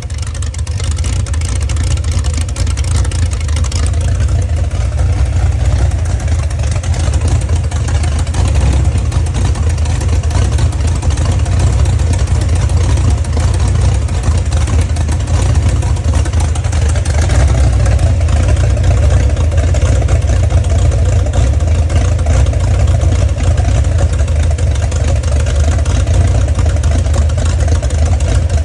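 Chrysler LA 360 small-block V8 with an Isky 270 Mega camshaft and Stage 1 J heads, running steadily at idle.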